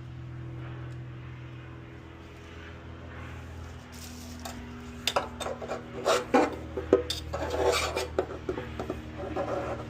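Scraping and rubbing at caked-on grime on a dirty deep fryer: a run of harsh rasping strokes and knocks starting about five seconds in, over a steady low hum.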